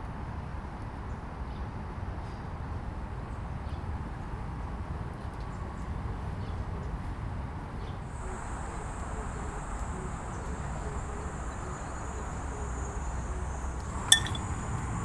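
Outdoor ambience with a steady low rumble, joined about halfway through by an insect's steady high-pitched drone. Near the end there is a single sharp clink with a brief ring.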